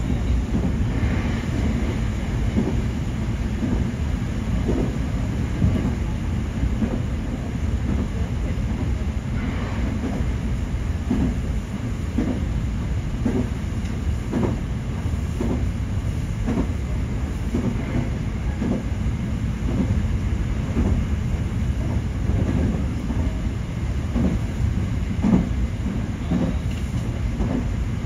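Nankai 8300 series electric train running, heard from inside the leading car: a steady low rumble with irregular knocks and clicks from the wheels passing over rail joints.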